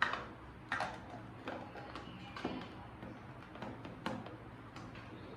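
A series of light knocks and clicks, about seven at uneven intervals, like objects being set down and handled.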